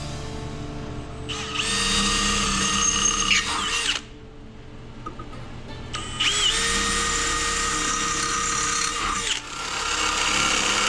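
A handheld power tool runs twice, each time for about three seconds, with a high-pitched whine that winds up and cuts off. This is metal fabrication work on custom intake and exhaust parts.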